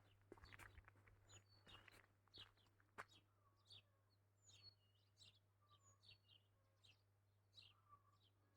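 Faint chirps and calls of small birds over a steady low hum from a nearby electrical substation, with one sharp click about three seconds in.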